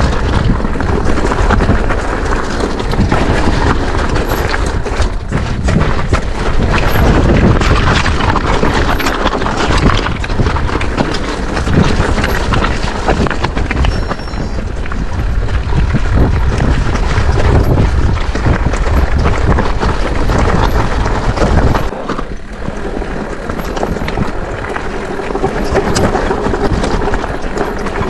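Wind buffeting the action camera's microphone, mixed with tyre and frame noise from an e-mountain bike being ridden along a trail. The deep rumble eases suddenly about 22 seconds in.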